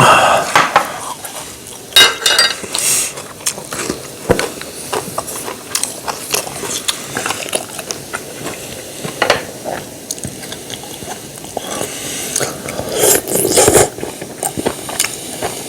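Eating at a table: spoons and chopsticks clicking and scraping against bowls and dishes, with chewing in between and a few louder noisy bursts.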